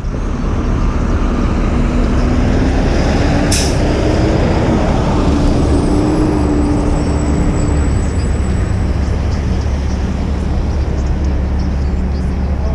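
City street traffic with a heavy low rumble, heard from a moving bicycle. A vehicle engine drones for several seconds in the middle, and a short sharp hiss comes about three and a half seconds in.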